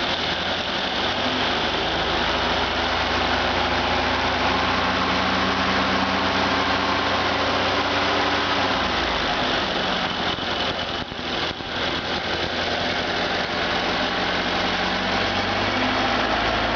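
Freshly rebuilt Ford Model A four-cylinder flathead engine running at raised speed under throttle, then dropping back to a lower speed about nine seconds in and running on steadily. It runs smoothly, with very little vibration.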